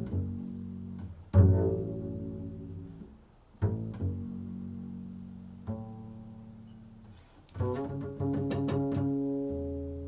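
Improvised music on a plucked string instrument: single low notes struck every couple of seconds, each ringing out and slowly fading, then a quick run of plucked notes near the end.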